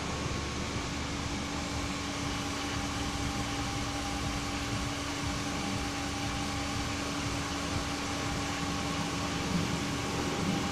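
Steady mechanical hum of a fan or small motor running, with a few unchanging tones over an even noise.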